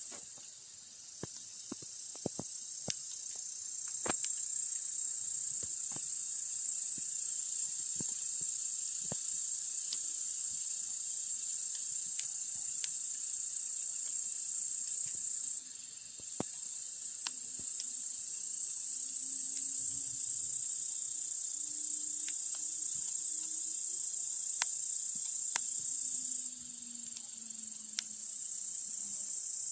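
Crickets chirping steadily at a high pitch, with the sharp pops and snaps of a wood campfire crackling throughout. The insect chorus drops away briefly about halfway through and again near the end, and a faint low drone wavers in pitch during the second half.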